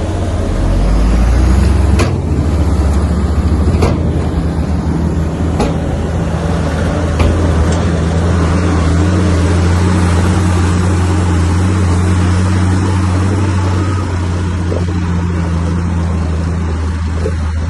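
Heavy diesel earthmoving machine running steadily under load with a deep, low drone. Four sharp knocks come at even spacing, about every second and a half to two seconds, in the first half.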